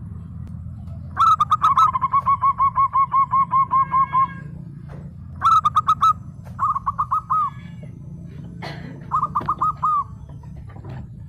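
Zebra dove (perkutut) calling in rapid trains of short cooing notes. One long run of about fifteen notes comes first, then three shorter phrases, over a steady low hum.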